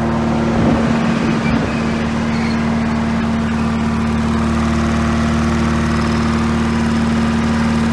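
GM 2-71 two-cylinder two-stroke diesel engine running steadily, its pitch wavering briefly about a second in.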